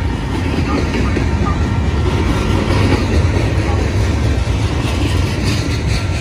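Cars of a Norfolk Southern manifest freight train rolling past: a loud, steady rumble of steel wheels on the rails.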